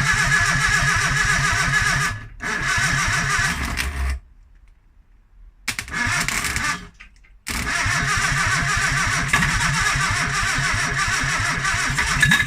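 Freshly rebuilt Morris Minor 948cc A-series four-cylinder engine running on its first start, with a fast, even firing beat. It cuts off abruptly a few times, with short quiet gaps, and comes back each time, then runs steadily through the rest.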